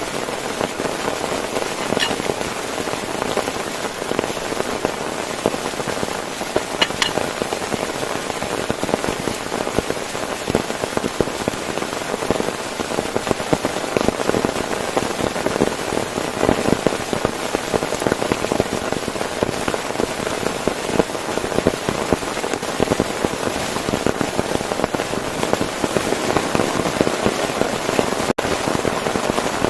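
Heavy rain falling steadily on a tent, a dense, unbroken rush of drop impacts.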